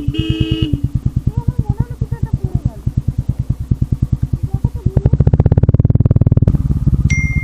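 Motorcycle engine running at idle with a steady pulsing beat, which gets noticeably louder about five seconds in. A multi-note horn with stepping pitch sounds briefly at the start, and a thin high beep comes in near the end.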